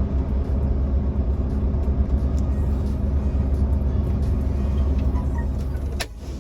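Semi truck's diesel engine running with a steady low rumble. About six seconds in there is a sharp click, and the sound drops quieter.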